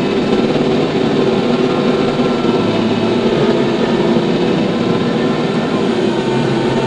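TYM T574 tractor's diesel engine running steadily under load.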